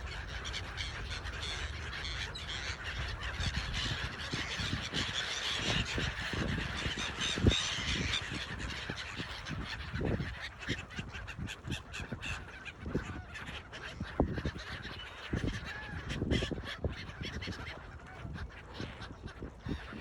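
A flock of gulls calling over one another as they feed, a dense, continuous chorus of squawks.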